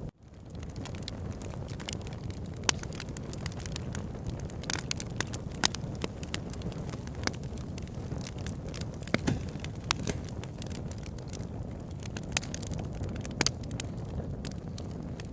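Wood fire crackling in a fireplace: irregular sharp pops and snaps over a steady low rumble of burning. The sound drops out briefly right at the start and fades back in.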